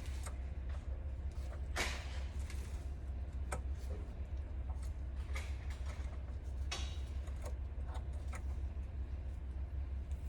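Scattered clicks and creaks of metal parts being handled, over a steady low hum.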